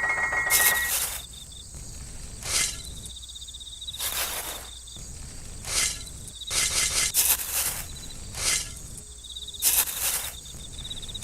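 Cricket-like insects chirping steadily, with a short noisy burst about every second and a half.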